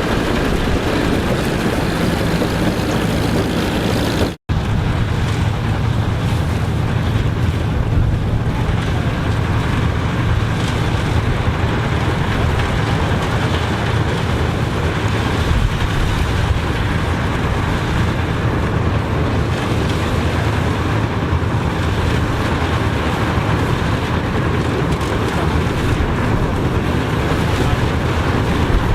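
Steady running of a heavy engine, typical of an old tractor or harvesting machine, with a broad rushing noise over it. The sound cuts out for an instant about four seconds in.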